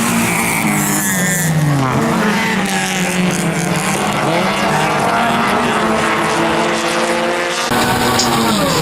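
Toyota Corolla offroad race car's engine under hard acceleration, its pitch climbing and dropping repeatedly as it revs through the gears. The sound changes abruptly near the end.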